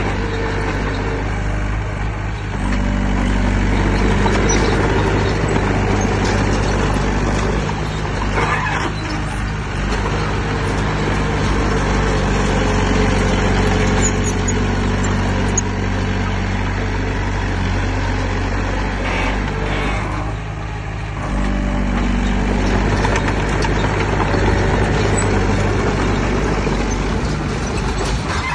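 Heavy diesel engine of earthmoving machinery running under load. Its note steps up about two and a half seconds in, eases off briefly near twenty seconds, then picks up again.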